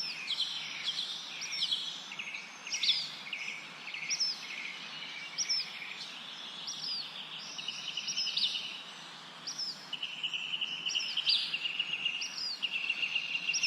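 Several small songbirds chirping and trilling over one another: short, repeated up-and-down chirps over a steadier trill, with an even hiss of background noise underneath.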